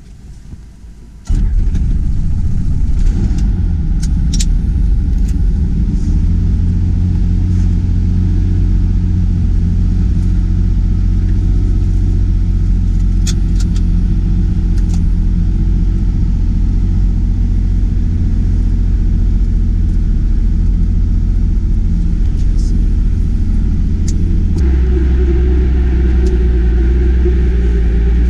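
Robinson R44 Clipper II helicopter's engine and rotors, heard from inside the cabin as a loud, steady low drone that comes in suddenly about a second in. About four seconds before the end the drone deepens and a rougher rush rises over it.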